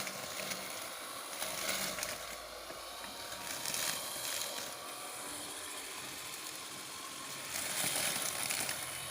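Homemade solar-powered electric brush cutter running and cutting grass: a steady, quiet motor whir with the hiss of cut grass, swelling a few times as it sweeps through thicker growth.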